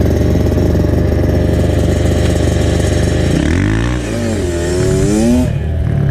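Dirt bike engine running under steady throttle, then the revs drop and climb again about three and a half seconds in, rising until near the end before easing off.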